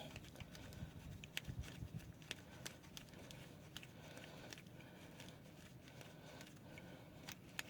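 Faint, scattered clicks and light taps at irregular intervals, from brake parts and hand tools being handled during brake reassembly.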